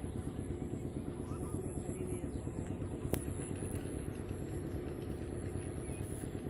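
A small engine running steadily at an even speed, with one sharp click about three seconds in.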